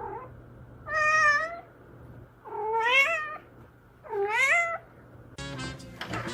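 A cat meowing three times: long, drawn-out meows about a second and a half apart, each bending in pitch.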